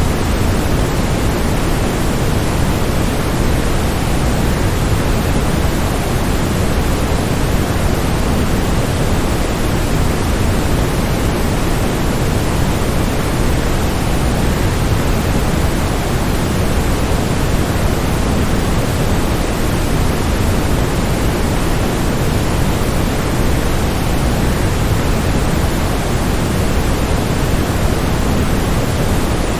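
Waterfall rushing: a steady, even noise of falling water, heaviest in the low end, with no changes.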